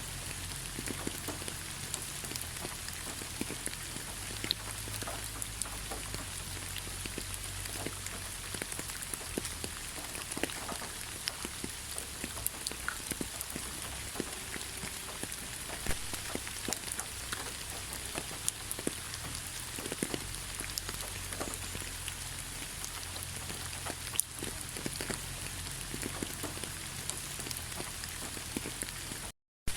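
Steady rain pattering on a surface, with many separate drops ticking sharply through it. Near the end the sound cuts out completely for a split second, then resumes.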